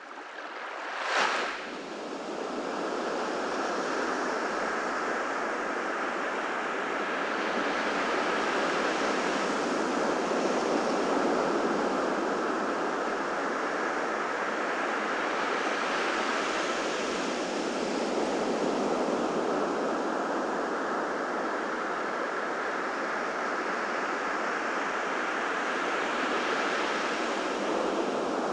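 Ocean surf washing onto a beach: a steady rush of breaking waves that swells and eases slowly. About a second in, a short sharp burst of noise stands out as the loudest moment.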